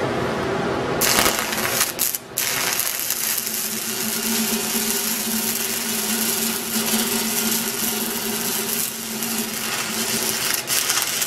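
Stick-welding arc crackling and sizzling steadily as a downhill bead is run on pipe; the arc strikes about a second in and breaks off briefly about two seconds in before crackling on. A steady hum runs underneath.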